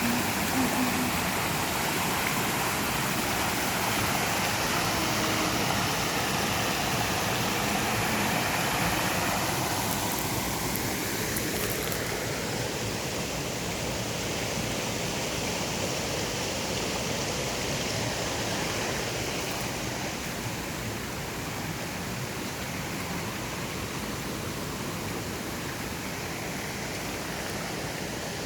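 Swollen mountain stream rushing and gushing over rocks, a loud, steady roar of water, slightly louder in the first ten seconds or so. The water is running high.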